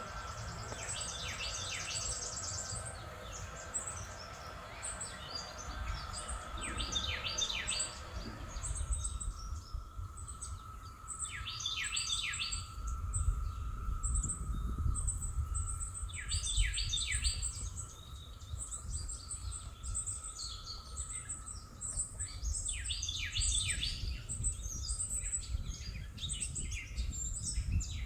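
Songbirds chirping in short repeated bursts, with a high thin trill above them. Underneath are a faint steady hum and a low outdoor rumble.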